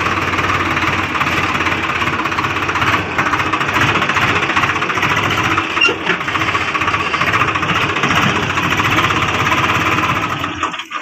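Swaraj 735 XT tractor's diesel engine running steadily with a dense clatter. The sound breaks up and drops away near the end.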